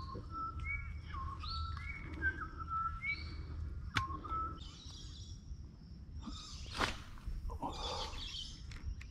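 Birds calling: a run of whistled notes with quick upward sweeps through the first few seconds. A faint steady high tone lies underneath, and there are two brief noisy rustles near the seven- and eight-second marks.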